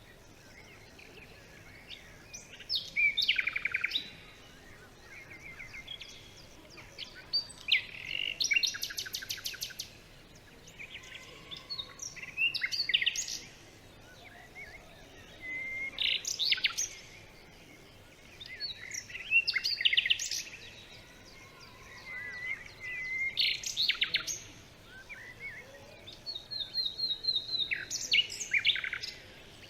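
Songbirds singing in a forest: phrases of rapid chirps and trills every few seconds, from more than one bird, over a faint steady background.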